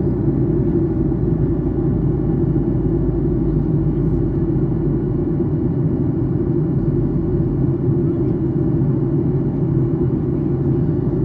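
Steady cabin noise inside a Boeing 737-800 in flight during descent: a constant low rumble of engine and airflow noise, with no changes.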